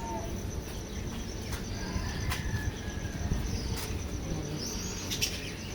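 Birds calling faintly now and then, with scattered sharp clicks or taps over a steady high buzzing tone and low background rumble.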